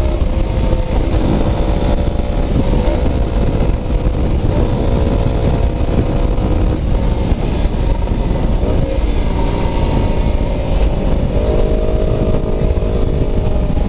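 Honda CB125T's parallel-twin engine running through a swapped-on Suzuki GS400 muffler while the bike is ridden. The exhaust note holds steady and shifts in pitch a few times, with a heavy low rumble underneath.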